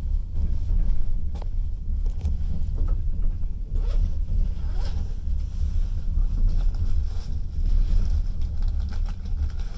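Passenger train running: a steady low rumble of the carriage rolling along the track, with a few faint knocks.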